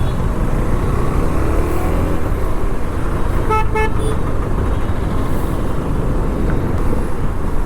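Heavy road traffic heard from a moving motorcycle: a steady rumble of engines and road noise, with a vehicle horn giving two short toots about three and a half seconds in.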